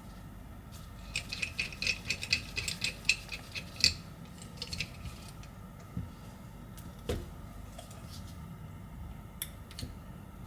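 Light, sharp clicks and taps of small metal repair tools and phone parts being handled: a quick run of clicks for about three seconds, then a few single clicks spread through the rest.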